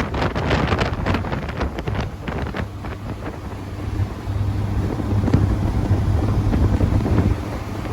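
Wind buffeting the microphone over a car engine's steady low hum, the hum growing stronger from about four seconds in until near the end.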